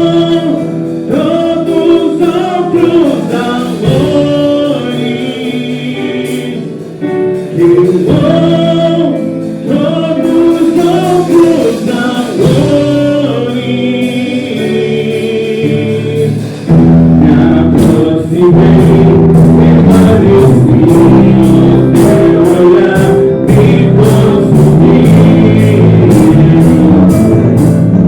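Worship song sung in Portuguese by a male-led worship team over keyboard accompaniment. About 17 seconds in, the full band comes in loud with drums and guitar, keeping a steady beat with cymbal strokes.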